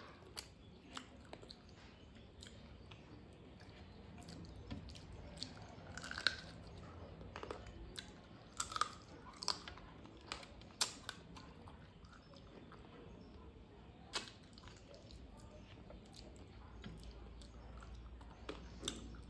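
Close-miked chewing and lip-smacking of a mouthful of rice and curry, heard as irregular soft, wet clicks and smacks, a few of them louder around the middle.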